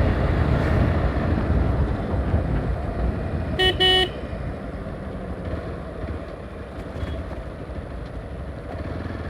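Hero XPulse 200 motorcycle on the move: a steady low engine and wind rumble, quieter after about four seconds in. A vehicle horn beeps twice quickly about three and a half seconds in.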